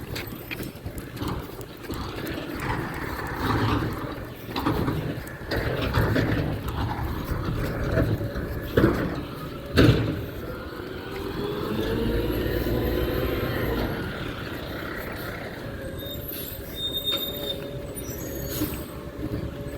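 Garbage truck at work: a run of irregular clanks and knocks, the two loudest about nine and ten seconds in, then a whine with several rising tones over a low rumble about twelve seconds in.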